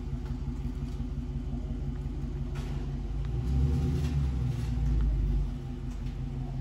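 2019 Dodge Charger Scat Pack's 392 HEMI V8 running at low speed on its stock exhaust as the car creeps into a shop bay. The rumble grows louder for a couple of seconds in the middle, then settles back.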